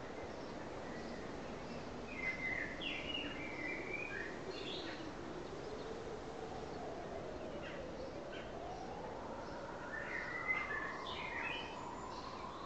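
Small birds chirping in two short flurries, one a couple of seconds in and one near the end, over a steady outdoor hiss. A faint tone slowly wavers and rises in pitch underneath.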